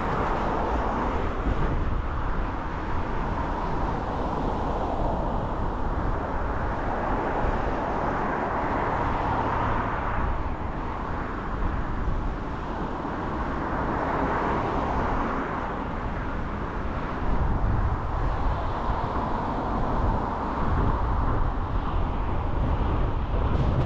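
A car on the move: steady road, tyre and engine noise with a deep rumble, swelling and easing slightly as it drives.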